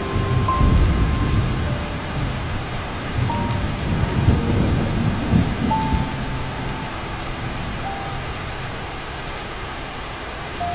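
Steady heavy rain with two rolls of low thunder, one about half a second in and one around four to five seconds in. Sparse, slow piano notes sound over the rain.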